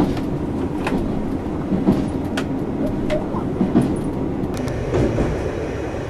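A JR Hokkaido train running along the track, heard from inside the carriage as a steady rumble with a few sharp clicks scattered through it.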